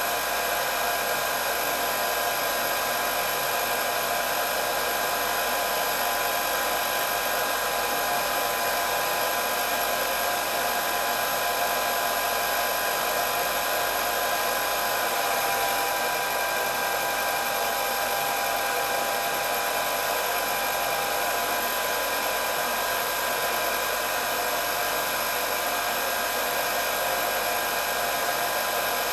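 Hair dryer running steadily: an even rush of blowing air with a high whine of several steady tones, no change in speed.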